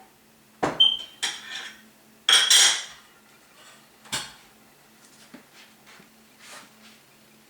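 Kitchenware being handled: dishes and utensils clattering and clinking, with a few sharp knocks that ring briefly, loudest about a second in and again between two and three seconds in, then lighter taps.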